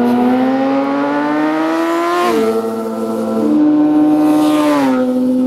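Suzuki GSX-R 750's inline-four engine accelerating hard under a rider. Its pitch climbs, then drops sharply a little past two seconds in and again near the end as it shifts up through the gears.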